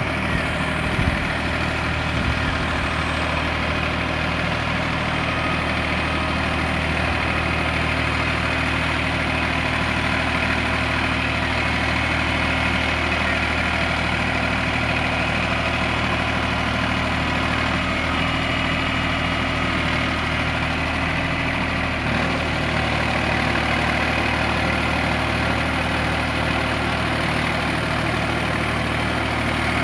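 Sonalika RX 47 tractor's diesel engine running steadily, its pitch holding even without revving up or down.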